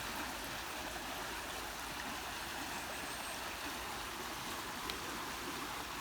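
Steady rush of running water from a stream flowing nearby.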